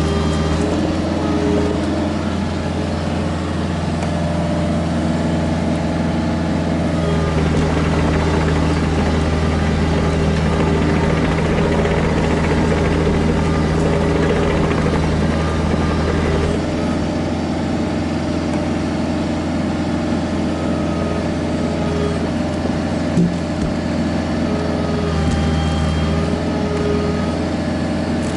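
Kubota KX121-3 mini excavator's diesel engine running steadily, its note changing several times as the machine works. A single sharp knock about two-thirds of the way through.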